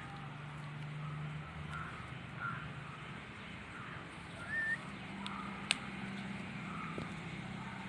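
Outdoor ambience: a steady low engine-like hum that rises slightly in pitch about five seconds in, with scattered short bird chirps, one rising chirp near the middle and a single sharp click shortly after.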